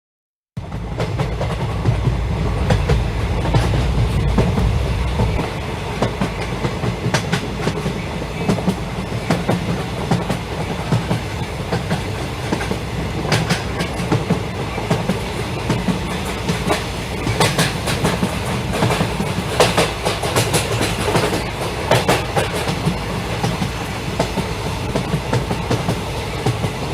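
Battery-operated Thomas the Tank Engine toy running: its small electric motor and gears whir steadily with frequent sharp clicks, and a heavier low hum for about the first five seconds.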